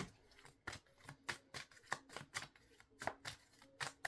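Tarot cards being shuffled by hand: a quick, uneven run of soft card clicks and slaps, about two or three a second.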